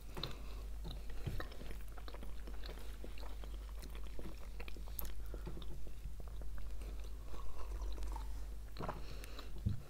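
Two people chewing Kinder Milk Slices, soft chocolate sponge cakes with a milk-cream filling, close to the microphone: soft wet chewing and small mouth clicks throughout, with a sip from a glass near the end.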